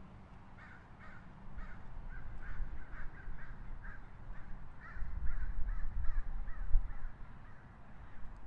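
A bird giving a long run of short, harsh calls, about two to three a second, over a low rumble that grows louder in the middle.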